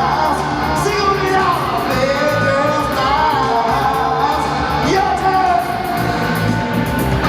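Live pop-rock song: a singer holds long, wordless sliding vocal runs over electric guitar and a steady beat.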